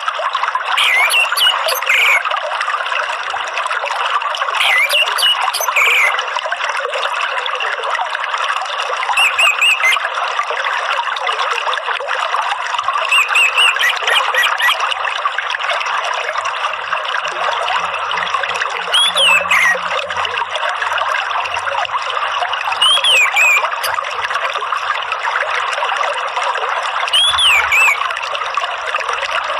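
Steady trickling, flowing water with a bird, an orange-headed thrush, giving short whistled notes that bend up and down every few seconds.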